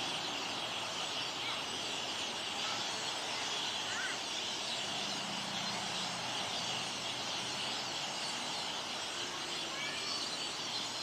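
Large flock of birds perched on wires, many calling at once in a steady, dense chatter.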